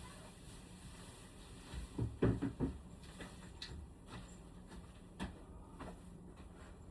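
A quick cluster of knocks and clatters about two seconds in, then a few single sharp clicks, like hard objects being handled and set down.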